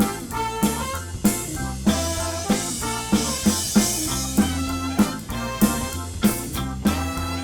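Live soul band playing an instrumental passage without vocals, the drum kit keeping a steady beat under sustained low notes and guitar.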